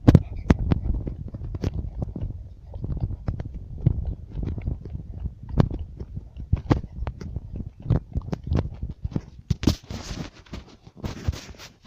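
Campfire crackling, with irregular sharp pops and snaps over a low rumble, and a stretch of hissing near the end.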